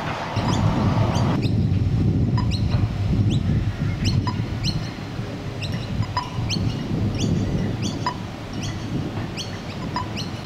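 Birds chirping over and over, in short rising calls about twice a second, over a low rumble that is loudest in the first half.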